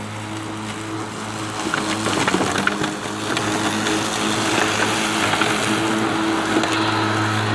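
Battery-powered Stihl 510 lawn mower running, its blade humming steadily as it cuts through thick, overgrown grass. Crackling and snapping of stems and debris is heard around two to three seconds in.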